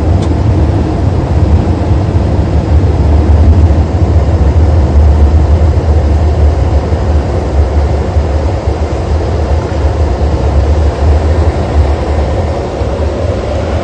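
Car driving: a loud, steady low rumble of engine and road noise.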